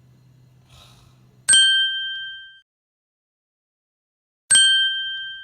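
Two identical bright bell dings about three seconds apart. Each is struck sharply and rings out on a clear high tone for about a second.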